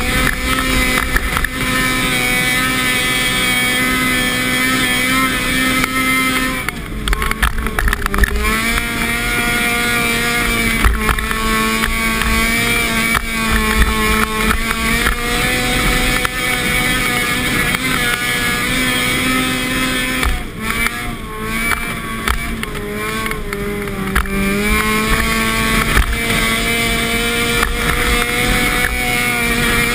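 Car engine heard from inside the cabin, running under load at fairly steady revs over a rough rumble of wind and tyre noise. The engine note sags and climbs back twice, about a quarter of the way in and again after two-thirds, as the throttle is eased off and reapplied.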